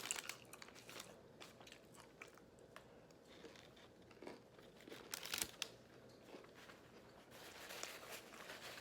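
Faint crunching and chewing as a taco is eaten, with scattered crisp bites, the loudest about five seconds in.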